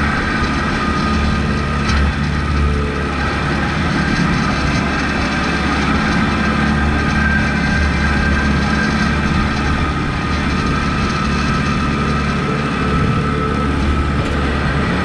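Kubota MX5200 tractor's four-cylinder diesel engine running steadily while plowing snow, with a steady high whine over the low engine drone. There is a single small knock about two seconds in.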